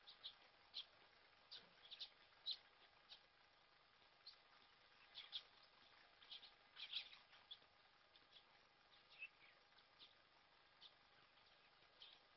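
Faint, scattered bird calls: short high chirps and whistles every second or so, a few gliding down in pitch, over quiet background hiss.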